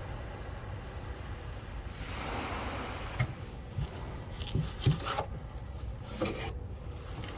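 Steady rush of waves, with several short knocks and rubbing sounds in the second half.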